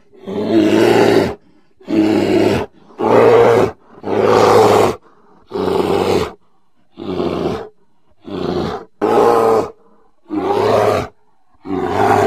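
A bear roaring and growling in a series of about ten loud calls, each under a second and a half long, separated by short silent gaps.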